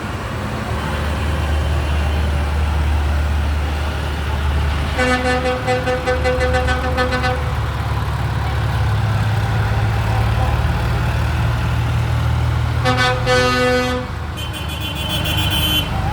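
Tractor engines running as they pass in a parade, a steady low rumble. A horn sounds for a couple of seconds about a third of the way in and again briefly later, then a higher-pitched tooting comes just before the end.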